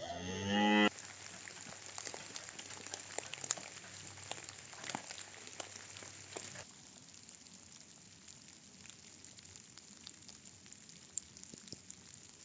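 Rain pattering with scattered drips and ticks, steadier and louder for the first seven seconds or so, then softer. A short pitched cry sounds at the very start.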